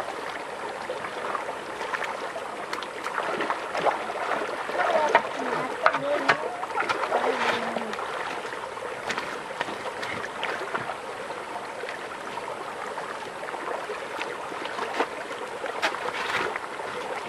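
Water running and sloshing, with scattered small splashes and knocks.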